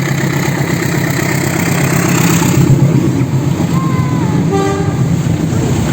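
Diesel-hauled passenger train running past as it pulls out, a steady low engine drone under loud rumbling noise, with a short toot about four and a half seconds in.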